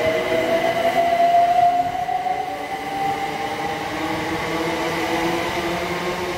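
Abellio Greater Anglia electric multiple unit passing close by along the platform, its wheels and running gear rumbling steadily under a whine that rises slowly in pitch.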